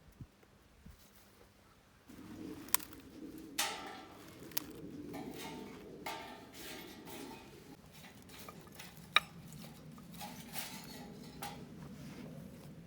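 Metal camp cookware and utensils clinking and scraping, with several sharp clinks over a steady low rustle that starts about two seconds in.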